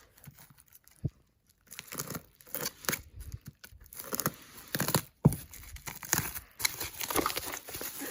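Packaging being torn open and crumpled by hand: irregular rustles, rips and crinkles with a few sharp clicks.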